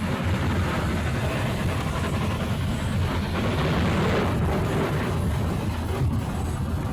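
Loud, steady rumble inside an aircraft cabin as the plane rolls hard along the ground during a crash landing.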